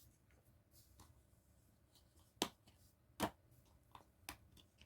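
Quiet handling of a plastic disc case, with two sharp clicks about two and a half and three and a quarter seconds in, then a few softer ticks.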